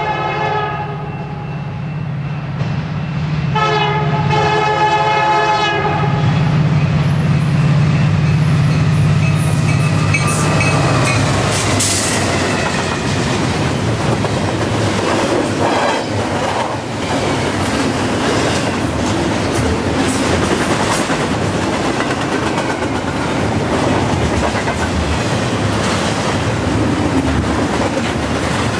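Freight diesel locomotives of a CN intermodal train sound their air horn twice, once ending about a second in and again from about 3.5 to 6 seconds, while the engines' low drone grows and passes by about 11 seconds. Then the double-stack container well cars rush past, with a steady clickety-clack of wheels on the rail.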